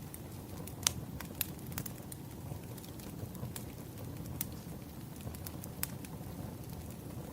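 Wood fire burning, with a steady low rumble and irregular sharp crackles and pops; the loudest pop comes about a second in.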